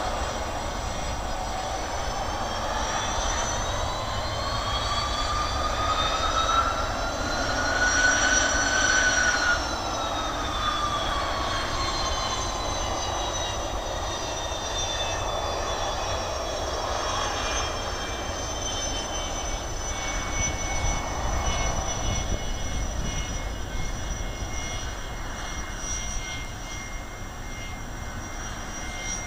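Jet airliner passing close by near the runway end: its engine whine rises in pitch as it approaches, is loudest about eight to nine seconds in, then drops in pitch and fades into a steady distant rumble.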